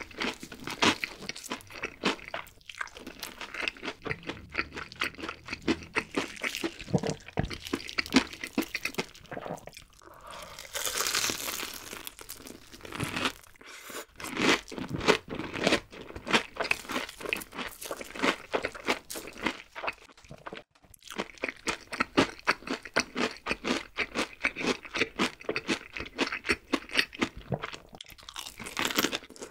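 Close-miked crunching and chewing of crispy fried chicken, a dense run of sharp crunches from the coating, softer for a stretch around the middle.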